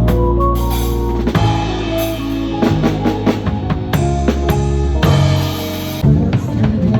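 Live band music: a drum kit with kick and snare hits under guitar, bass and sustained keyboard notes.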